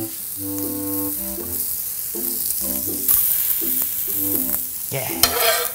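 Pork sausage patties sizzling on a hot griddle as they are flipped with a metal spatula, with a louder burst of sizzle about five seconds in, over background music.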